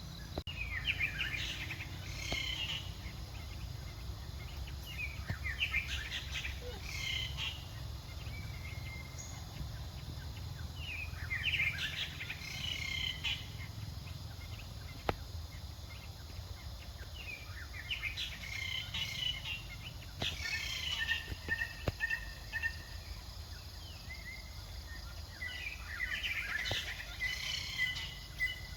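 High-pitched animal chirps and squeaks in short clusters every few seconds, over a steady low rumble.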